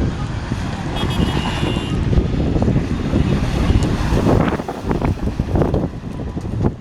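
Strong wind buffeting the microphone: a loud, steady low rumble, with a brief faint high tone about a second in and some short crackles in the second half.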